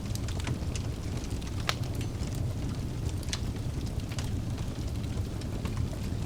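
Wood fire burning in a fireplace: a steady low rumble of flames with scattered sharp crackles and pops, the sharpest nearly two seconds in.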